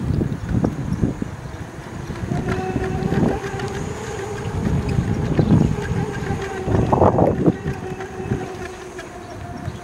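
Wind buffeting the microphone on a moving electric bike, with a steady hum from its electric motor coming in about two seconds in and running under the gusts.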